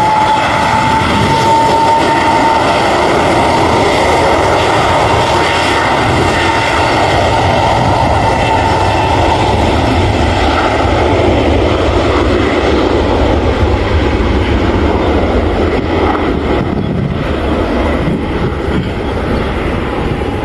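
Airliner engines running loud and steady, with a high whine in the first couple of seconds that fades out, easing slightly near the end.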